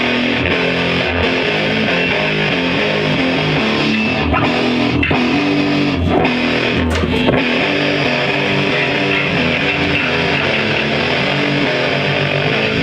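Loud, steady live rock music with electric guitar and bass guitar playing.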